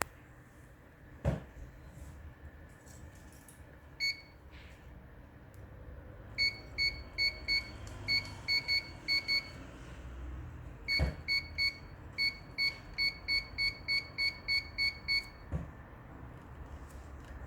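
Fuji UG330H-SS4 touch-screen panel giving a short high beep for each touch: one beep, then about twenty in quick runs. Each beep shows that a touch has registered on the repaired screen. A couple of low knocks sound about a second in and about eleven seconds in.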